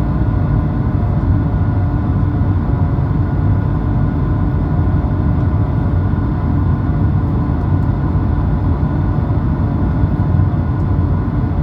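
Aircraft engines running steadily after take-off: a constant loud low rumble with a few faint steady tones above it.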